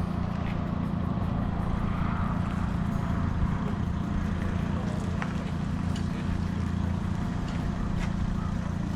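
An engine running steadily at constant speed with a low, even hum, and a few faint ticks over it.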